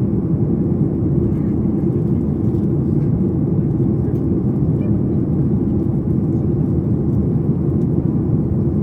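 Steady cabin noise inside a Boeing 737 MAX 8 in flight: airflow over the fuselage and the CFM LEAP-1B turbofan engines make an unbroken low rumble with little high-pitched content.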